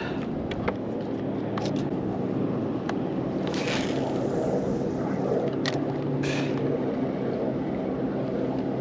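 Kayak trolling motor running at a steady hum, with a few short water swishes about halfway through.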